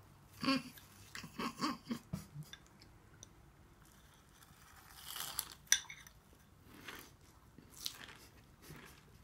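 A person chewing a spoonful of tofu topped with crushed Karamucho potato chips, with soft crunching and mouth noises. A sharp click about five and a half seconds in is the loudest sound.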